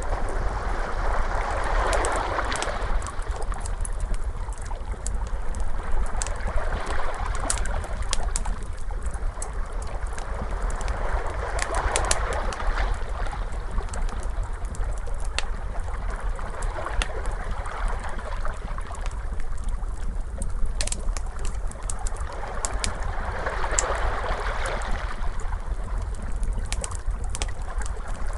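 Ocean waves washing in, swelling three times about ten seconds apart, with the sharp pops and crackles of a burning wood fire scattered over them.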